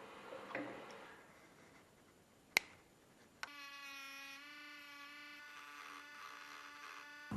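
A sharp click, then a small electric motor starts about a second later and buzzes at a steady pitch for about four seconds: the wiper motor running.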